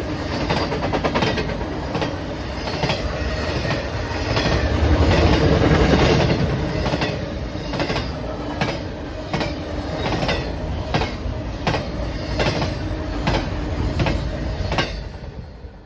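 Train cars rolling past, wheels clacking in a steady rhythm over the rail joints over a continuous rumble that swells about five seconds in. The sound drops away sharply just before the end as the train clears.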